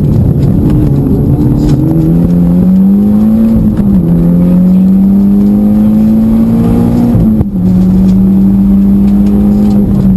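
Mitsubishi Lancer Evolution X rally car's turbocharged four-cylinder accelerating hard, heard from inside the cabin. The engine note climbs, drops suddenly on an upshift about a third of the way in and again about three quarters through, then pulls on.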